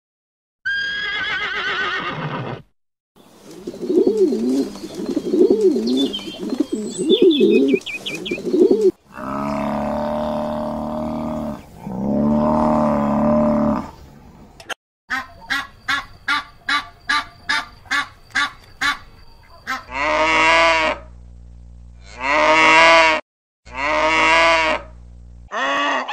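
A string of different animal calls: first a horse whinnying, then lower wavering calls, then two long lowing calls of Cape buffalo. After a rapid run of short calls, a donkey brays in three long blasts near the end.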